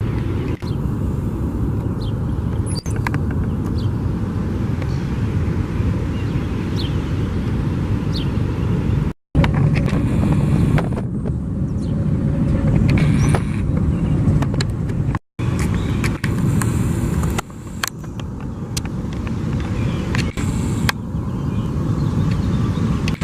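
Steady outdoor rumbling noise with a few faint high chirps; it cuts out abruptly twice, at splices between clips.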